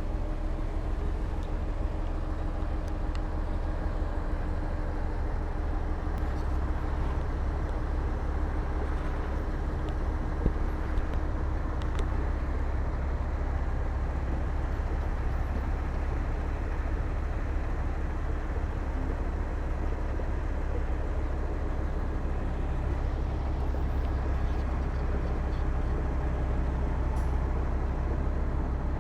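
Heavy diesel earthmoving machinery running steadily under load, a deep engine drone, with a couple of short knocks about ten and eleven seconds in.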